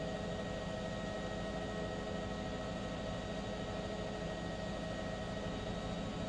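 A steady mechanical hum with several constant tones over an even hiss, unchanging throughout.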